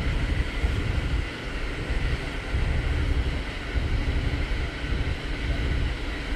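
Running noise of a moving Intercity passenger train: a steady low rumble that swells and dips unevenly, over a constant hiss.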